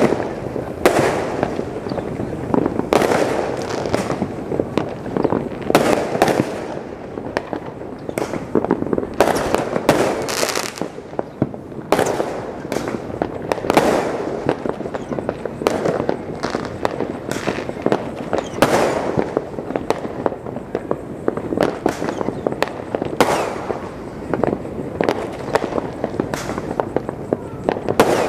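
Aerial fireworks going off in a continuous barrage: a dense, irregular run of overlapping bangs, several a second, some much louder than others.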